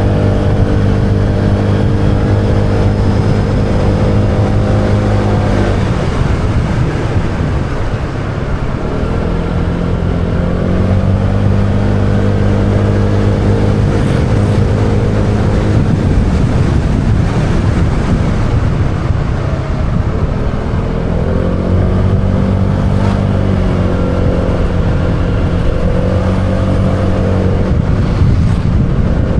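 Motorbike engine running at a steady cruising pitch, easing off about six seconds in and twice more later, then pulling steadily again, over a constant rush of wind noise.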